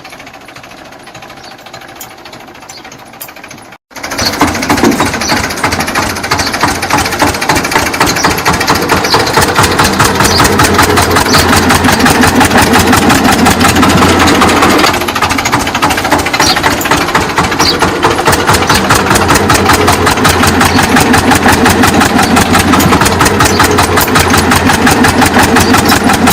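An engine running with a rapid, even chugging pulse. It comes in loud about four seconds in after a quieter start and carries on steadily, with a brief dip about fifteen seconds in.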